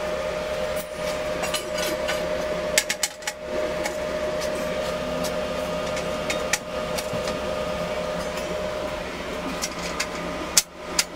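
Laser-cut quarter-inch steel plates clanking and clicking as they are set into the slots of a steel welding table. The sharp metal knocks come irregularly, with a cluster about three seconds in and the loudest near the end. A steady hum runs underneath and stops shortly before the end.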